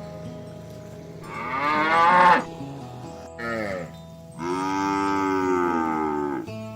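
Cattle mooing three times: a loud moo that rises and then falls in pitch, a short one, then a long, even moo of about two seconds, over background music.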